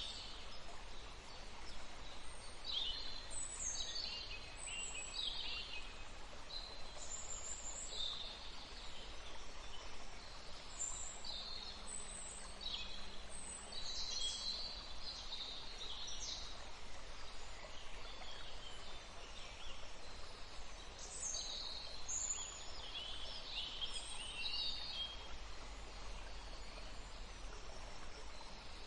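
Small songbirds chirping and trilling in short, repeated calls over a steady, even rush of running water.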